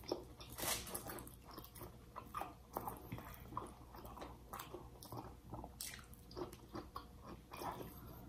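Close-up eating sounds of two people chewing soft baked fish and vegetables eaten by hand: irregular wet mouth clicks and smacks.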